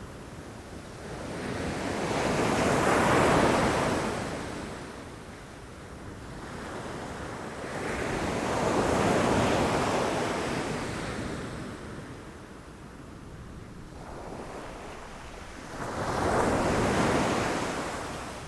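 Ocean waves breaking against rocks: three waves, each swelling up to a rushing crash and then fading away over several seconds.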